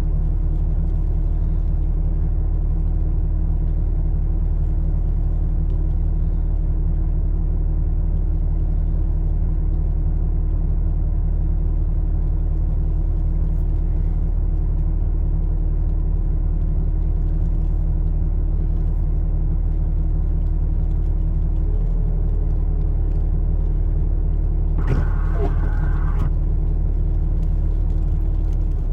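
A vehicle engine idling with a steady low rumble, heard from inside the cab. A brief higher-pitched sound comes in near the end.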